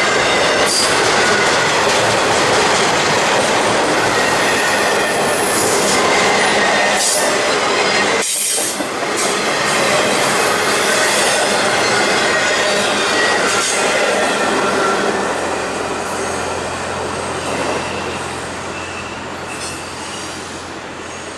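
Railroad cars rolling past on steel rails, a steady loud rumble with intermittent high-pitched wheel squeal. The noise eases off over the last several seconds as the train moves away.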